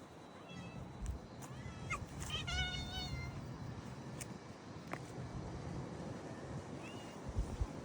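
Cat meowing several times: short mews about half a second and two seconds in, a longer meow lasting about a second, and a brief mew near the end, over a low rumbling background.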